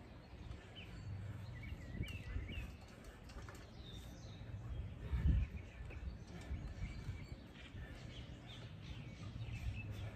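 Small birds chirping in short scattered calls over a steady low outdoor rumble, with one dull thump about five seconds in.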